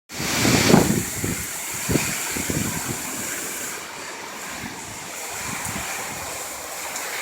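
Hurricane wind gusting and buffeting the microphone. The strongest gust comes about a second in, and the wind eases off somewhat in the middle.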